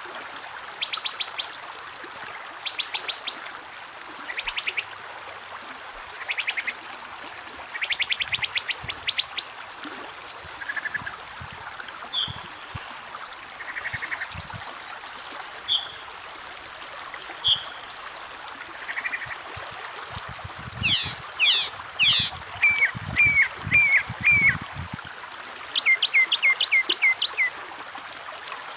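Several kinds of songbird singing over a steady trickle of water: short fast trills and single chirps at first, then from about two-thirds in, louder runs of repeated sweeping notes.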